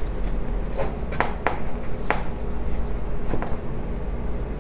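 A few light clicks and taps from handling the freshly popped can of refrigerated biscuit dough and separating the biscuits, over a steady low hum.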